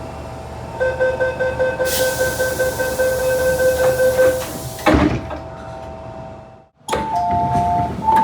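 MTR M-train door-closing warning beeping, with a hiss of air, then the sliding doors slamming shut with one loud bang. After a short gap comes a two-tone ding-dong chime, sounded twice.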